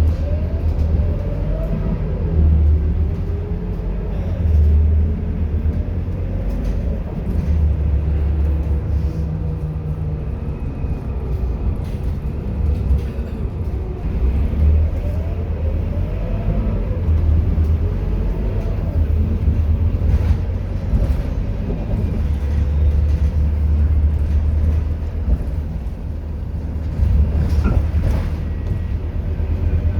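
Scania K230UB bus's diesel engine running under way, a heavy rumble whose pitch climbs and drops again several times as the bus pulls away, shifts and eases off.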